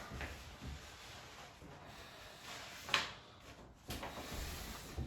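Wallpaper being handled: quiet paper rustling, with one sharp knock about three seconds in and a softer one about a second later.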